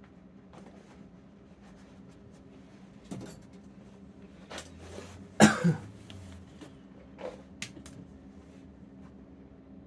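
A person coughing sharply twice in quick succession about halfway through, among a few light knocks and clicks of handling, over a steady low hum.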